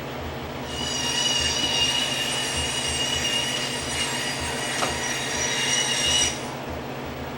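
A machine's steady high-pitched whine, lasting about five seconds and starting and stopping abruptly, over a steady low hum.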